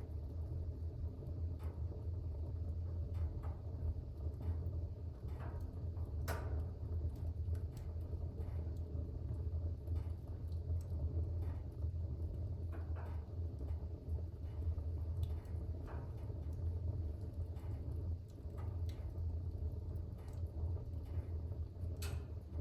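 Fire burning in a fireplace: a steady low rumble from the flames with scattered crackles and pops, a sharper pop about six seconds in and another near the end.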